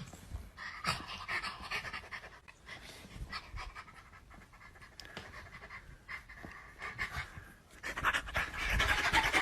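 A dog panting in quick, breathy bursts, louder near the end.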